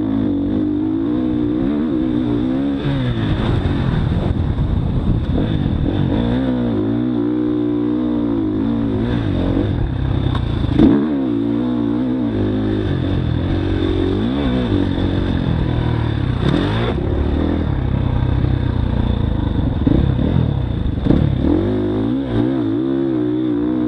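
Motocross dirt bike engine revving hard and falling back over and over as it is ridden around the track, its pitch rising and dropping with each throttle change. A couple of sharp knocks come partway through.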